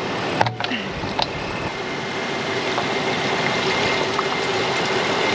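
Liquid pouring steadily from a bottle into a car's windshield washer fluid reservoir, slowly getting louder, after a short click about half a second in. The liquid is rosé wine used as makeshift washer fluid.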